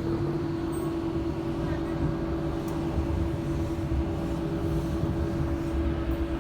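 Docklands Light Railway train running, heard from inside the carriage: a low rumble with a steady hum.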